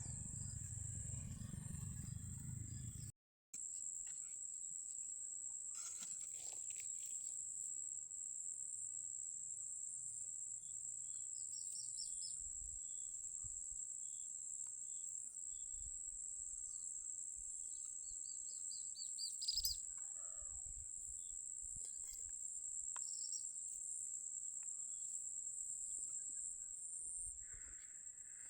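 A steady, high-pitched insect chorus, like crickets, with a few short chirps scattered through it and a low rumble for the first few seconds.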